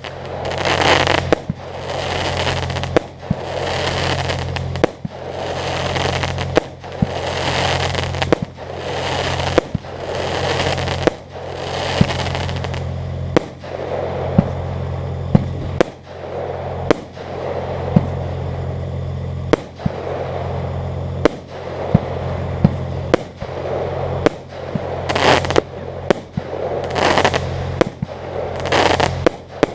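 Fireworks display: shells bursting in quick succession, a sharp bang every second or two, each followed by crackling. A steady low hum runs underneath.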